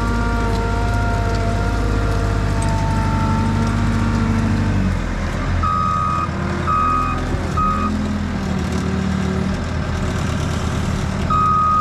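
Skid steer engine running, and from about halfway through its reversing alarm beeping in short tones as the machine backs up.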